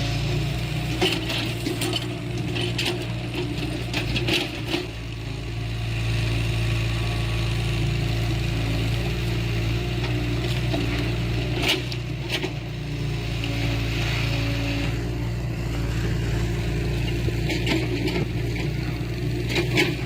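Heavy earthmoving machine's diesel engine running steadily, with occasional sharp metal clanks and knocks.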